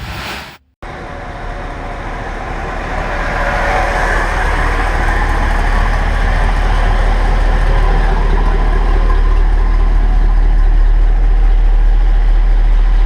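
1967 Lincoln Continental's 462 cubic-inch V8 running steadily. It breaks off for a moment about a second in, then grows gradually louder and holds.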